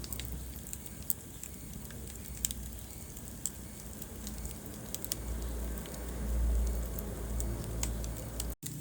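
Wood fire crackling in a fireplace: scattered sharp pops and snaps over a low, steady rumble of burning, the rumble swelling for a moment about six to seven seconds in. The sound cuts out for an instant near the end.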